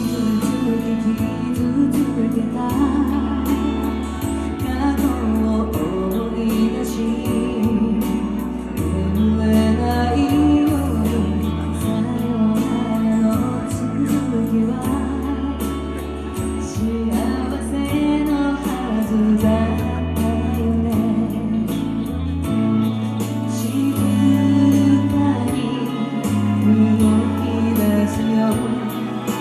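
A woman singing a song live over band accompaniment, with sustained bass notes and a steady ticking beat.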